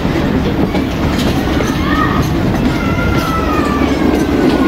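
Passenger train coaches running on a curving track, heard from an open coach door: a steady rumble of wheels on rail, with thin, slightly falling squeals of wheel flanges on the curve from about a second in.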